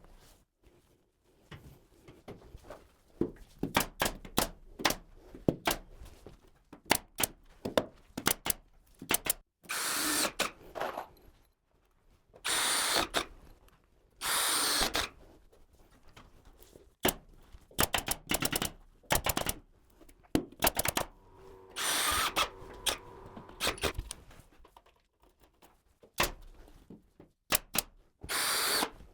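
A power drill runs in short bursts of about a second, six or so times, between many sharp clicks and knocks of tool work.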